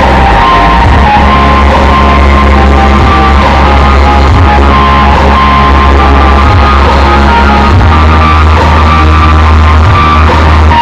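Very loud music played through a large sound system with twelve subwoofers, deep bass notes held for seconds at a time under the rest of the mix.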